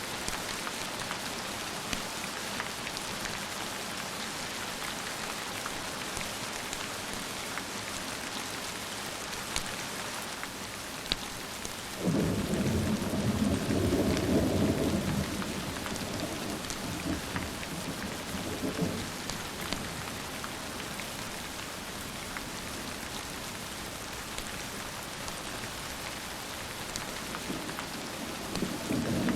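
Steady rain falling during a thunderstorm. About twelve seconds in a roll of thunder breaks in suddenly, rumbles for several seconds and dies away, and another peal begins near the end.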